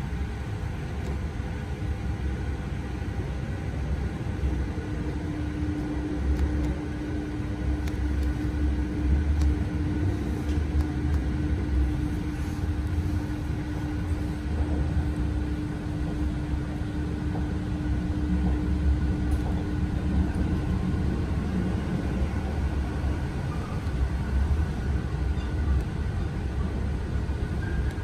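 Inside a moving RER A commuter train: the low, steady rumble of the train running on the track, with a steady hum from about five seconds in until about twenty-one seconds.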